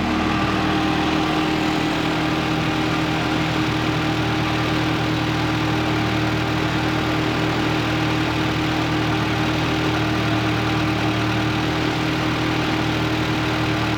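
Honda Integra Type R's B18C 1.8-litre VTEC four-cylinder engine running steadily at idle.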